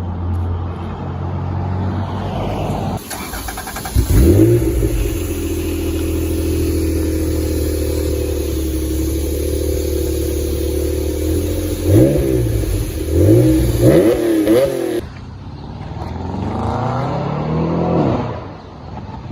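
Supercar engine running at a steady pitch, revved sharply about four seconds in, then blipped several times in quick succession. A last rev rises and falls before the sound fades near the end.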